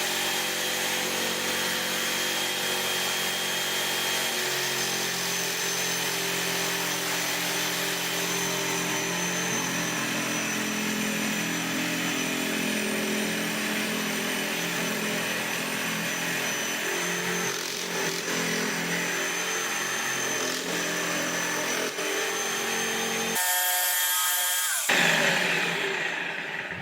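Jigsaw mounted upside down under a table insert plate, its motor running steadily and its blade cutting wood. Near the end the sound changes and then winds down as the saw stops.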